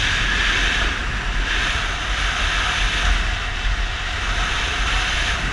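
Yamaha Fazer 250 motorcycle riding along at a steady pace: its single-cylinder engine running under the steady rush of wind over the microphone.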